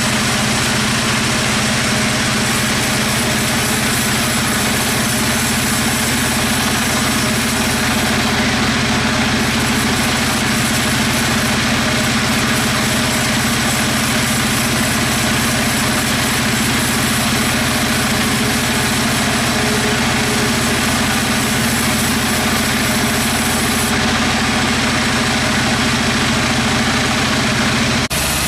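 Sawmill machinery running steadily: a constant motor hum with a broad hiss over it, with an abrupt change in the sound just before the end.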